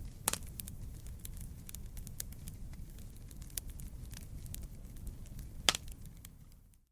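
Wood campfire crackling: scattered sharp pops and snaps of burning wood over a low steady rush of flame, with one loud pop near the end.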